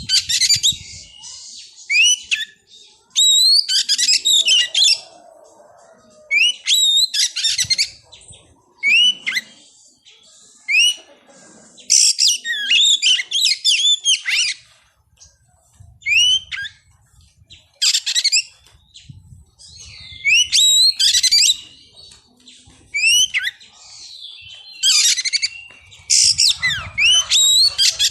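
Oriental magpie-robin (kacer) singing: bursts of loud, sharp upward-sweeping whistles mixed with harsh chatter, a phrase every second or two with short pauses between.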